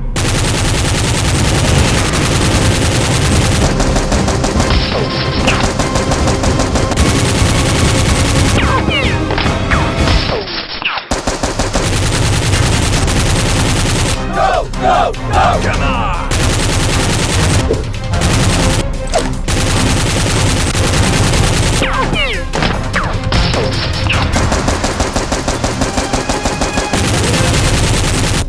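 Automatic gunfire sound effects: sustained rapid machine-gun fire with a short break about a third of the way in, and an even run of shots near the end.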